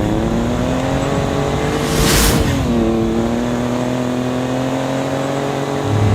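The 2017 Ford Raptor's 3.5-liter twin-turbo EcoBoost V6 pulling through sand, its note climbing for about two seconds. A brief hiss follows, then the revs fall and hold steady.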